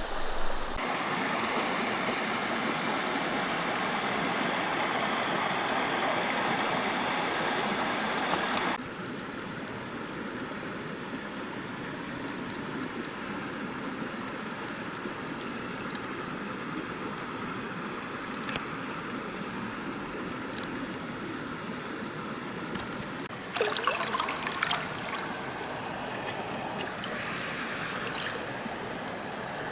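Mountain stream running in a steady rushing hiss. The level drops abruptly about nine seconds in. About two-thirds of the way through, a brief louder burst with sharp clicks rises over the water.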